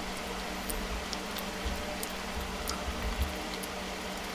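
Soft closed-mouth chewing of french fries, with faint wet mouth clicks and a few low soft thumps, over a steady room hum.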